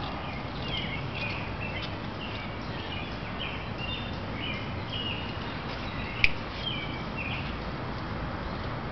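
Outdoor ambience with steady background noise and a small bird chirping in a run of short, repeated notes; one sharp click about six seconds in.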